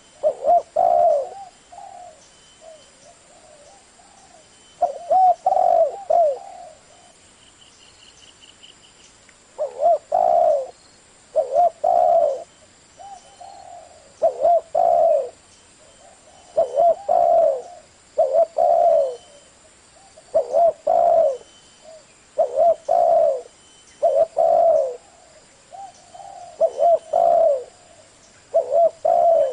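Spotted dove cooing in the deep 'giọng thổ' voice type, phrase after phrase of low coos about every two seconds, with a couple of longer pauses early on.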